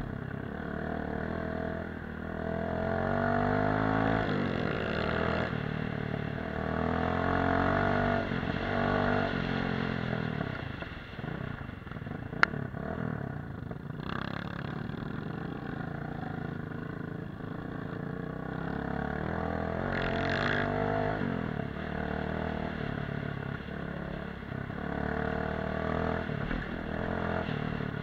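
Off-road motorcycle engine being ridden, its pitch rising and falling again and again as the throttle is opened and closed. A single sharp click sounds about halfway through.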